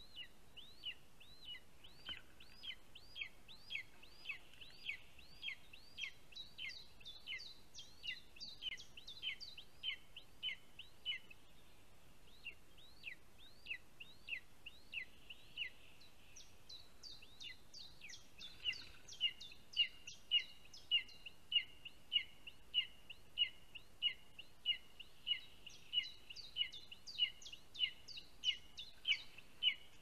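A bird gives a long series of short, high, down-slurred calls, about two a second, with brief lulls, becoming louder and more regular about two-thirds of the way in.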